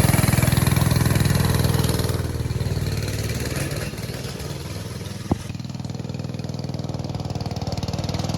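Small mini bike / pit bike engine running: it comes in abruptly at high revs, then settles to a lower, steady idle about four seconds in.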